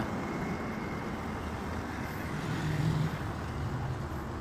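Road traffic noise: a motor vehicle's engine running nearby as a low steady rumble, swelling briefly a little before three seconds in.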